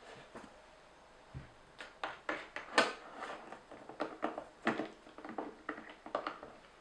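A run of irregular light clicks and taps, some close together, starting about a second and a half in and stopping shortly before the end.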